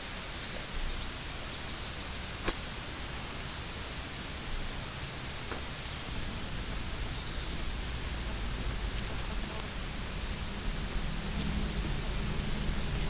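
Steady hiss of rain, with small birds giving several short, rapid, high-pitched chirping trills and one sharp tick about two and a half seconds in.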